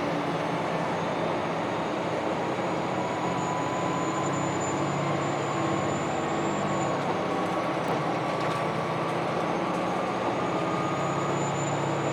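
Running noise heard aboard a KiHa 261 series diesel limited-express railcar under way: a steady rumble and rush of wheels on rail, with a faint high whine that dips in pitch about seven seconds in and rises again near the end.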